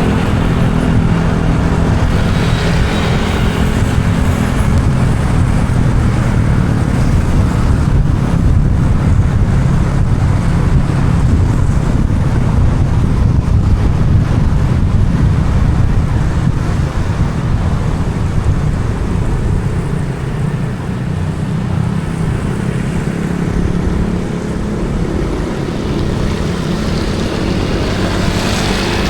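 Car driving through city traffic on wet roads: steady low engine and tyre rumble, with a swell of passing traffic near the start and again near the end.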